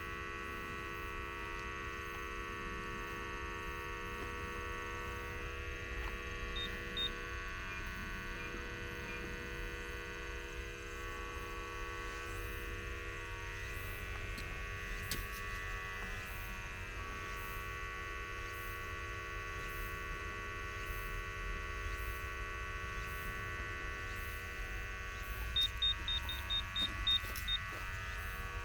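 Tracer-gas leak detector sampling over a buried water pipe: a steady electric hum made of several steady tones, with two short high beeps about seven seconds in and a quick run of about eight beeps near the end.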